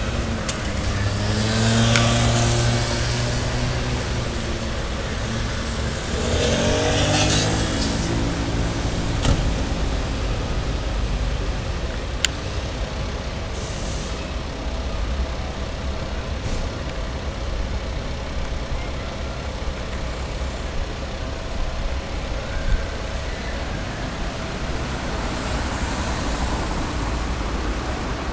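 Street traffic: two vehicles drive past in the first nine seconds, their engine notes rising and falling with a hiss as each goes by, over a steady low rumble of engines.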